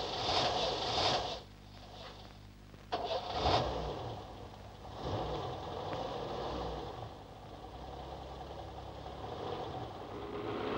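Car engine being cranked by its starter, then catching about three seconds in and running, its revs rising and falling.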